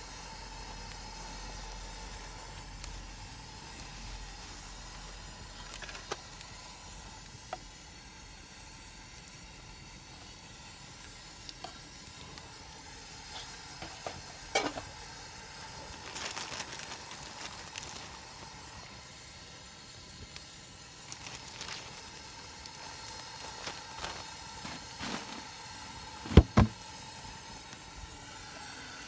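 Steady sizzling hiss of food frying in a pan on a camp stove, with scattered light clicks. Two sharp knocks near the end are the loudest sounds.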